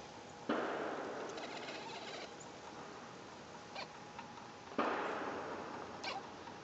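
Black kitten making two sudden breathy, unpitched noises about four seconds apart, each fading out over a second or so, with a few faint clicks between.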